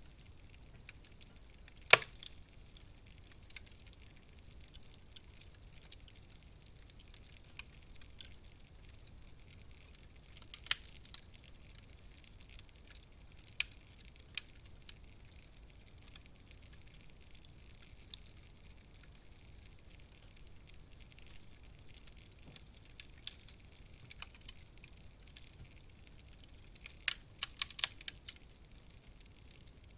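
Wood fire crackling in a fireplace: sparse sharp pops over a soft steady hiss, with one loud pop about two seconds in and a quick cluster of pops near the end.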